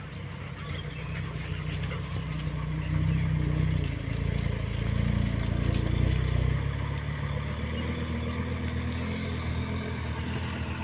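Six-wheel truck's diesel engine running, growing louder about three seconds in and easing back after about six seconds.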